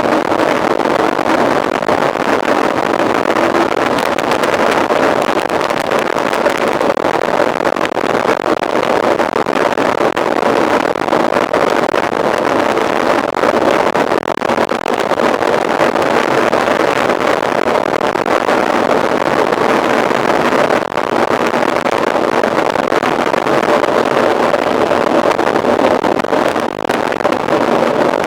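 Steady rush of wind over the microphone of a camera on a mountain bike being ridden at race pace, with no break or change.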